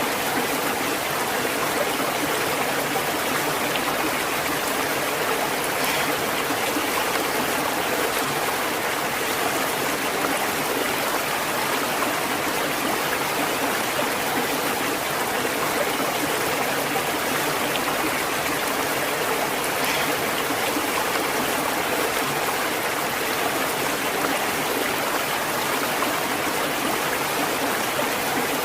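A stream of water flowing and babbling steadily, an even rushing with no let-up.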